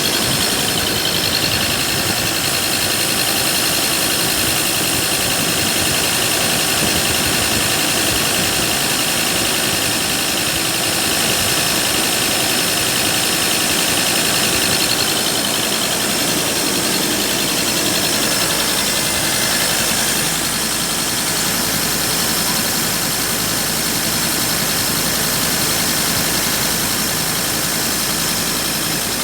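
Ford Ranger 3.2-litre five-cylinder turbo-diesel engine running steadily.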